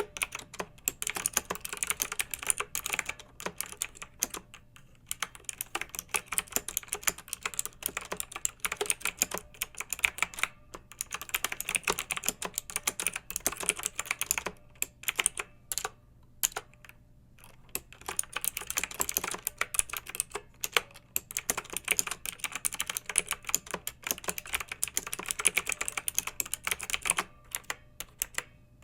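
Clicky mechanical keyboard being typed on in quick runs of keystrokes, broken by short pauses, the longest a second or two about halfway through.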